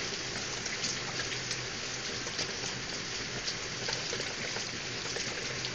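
Heavy downpour of rain and hail falling and splashing on a paved yard: a steady hiss with scattered small drip and pattering ticks throughout.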